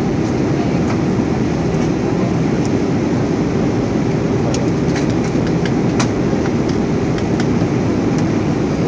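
Steady cabin noise inside an Airbus A320: an even, loud rumble of engines and airflow, with a few faint clicks near the middle.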